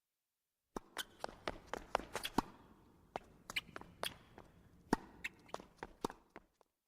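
Recorded sound effect: a run of sharp, irregular taps and clicks, about fifteen in six seconds, over a faint hiss.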